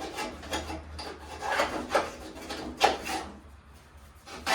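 Hand scraper scraping caked wet grass clumps off the underside of a riding mower's steel deck, in a series of rough strokes that grow softer near the end.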